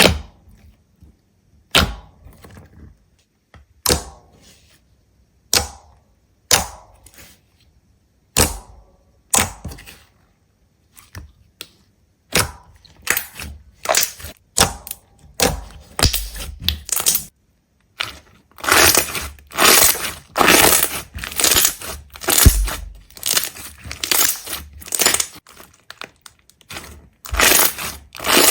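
Something brittle being cracked and crushed: single sharp snaps about every two seconds at first, quickening into dense, fast crunching through the second half.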